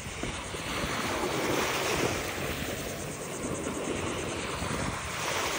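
Ocean surf washing on the beach, with wind buffeting the microphone; the wash swells about two seconds in.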